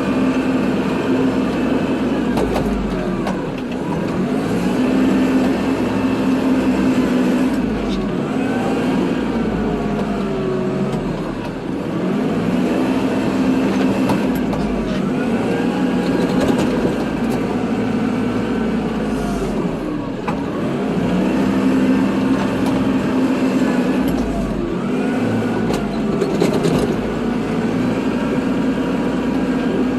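Kubota tractor's diesel engine running steadily under load while plowing snow. Its note dips and recovers in pitch and loudness about every eight seconds.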